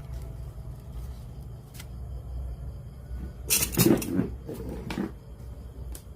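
A loud cluster of clicks and clatter from hard objects being handled about three and a half seconds in, with single sharp clicks before and after, over a steady low hum.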